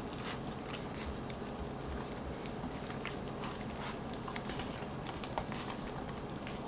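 Eating sounds: a person biting and chewing food, heard as many small scattered clicks and crunches over a steady low hum.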